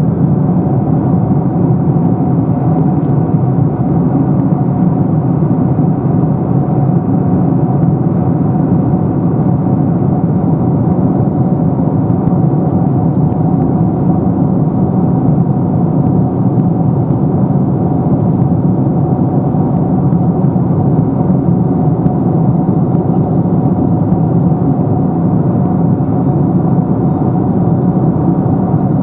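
Steady cabin noise of a Boeing 747-400 in cruise: a loud, even rush of airflow and engine drone heard from inside the passenger cabin, with a faint steady hum on top.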